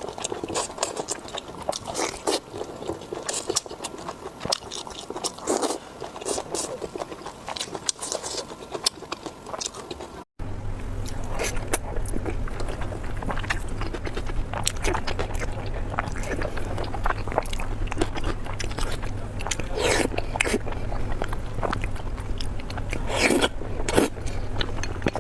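Close-miked eating: a person biting and chewing food, with many short crisp clicks and wet mouth sounds. About ten seconds in the sound cuts out for an instant, and after that a steady low hum runs under the chewing.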